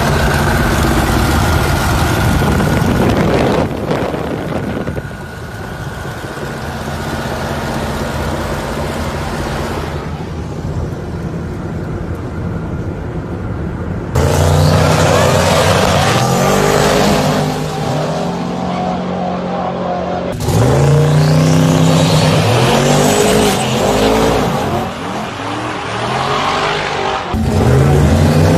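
Twin-turbo 7.3-litre LS V8 engine in a modified car, running loud under hard acceleration. Its note climbs and drops again and again as it pulls through the gears, in several loud runs that begin abruptly, after a steadier, quieter stretch.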